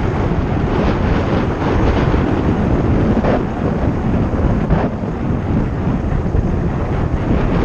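Heavy wind buffeting the microphone over the rumble and rattle of a mountain bike riding fast down a rough trail, with a few short scrapes and knocks.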